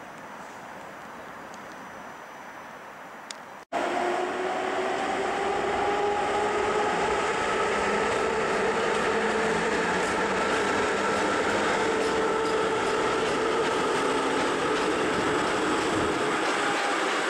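Faint background hiss, then after an abrupt cut about four seconds in, a train running through the station at close range: a rumble with several whining tones that rise and fall gently in pitch.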